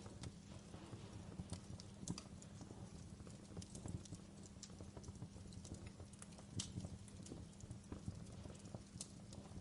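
Wood fire in a fireplace crackling: irregular sharp pops and snaps, several a second and uneven in strength, over a steady low rumble of the flames.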